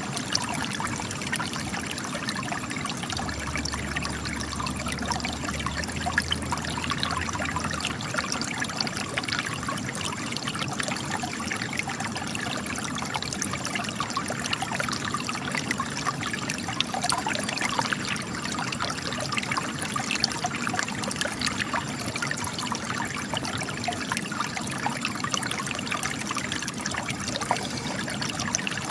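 Spring water trickling and splashing steadily out of cracks in rock, a continuous run of many small splashes.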